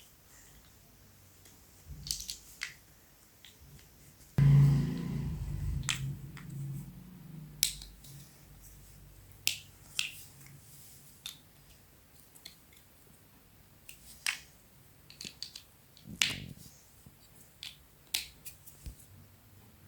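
Small plastic building blocks being handled and snapped together: scattered sharp clicks and taps, with one loud thump about four seconds in that fades out over a couple of seconds.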